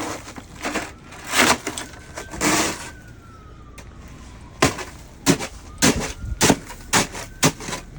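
A run of sharp, irregular knocks and cracks, about ten of them packed into the last three seconds. In the middle a faint, distant siren tone slides slowly down in pitch.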